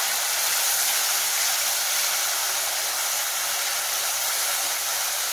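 Chopped onion and capsicum in oil and tomato sauce sizzling steadily in a kadai: an even, unbroken hiss as the vegetables fry.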